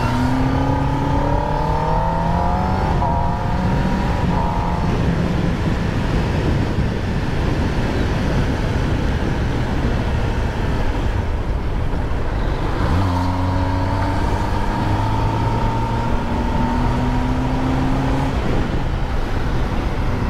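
Kawasaki ZX-10R's inline-four engine pulling up through the revs, its pitch rising near the start and again from about two-thirds of the way in, over steady wind and road noise.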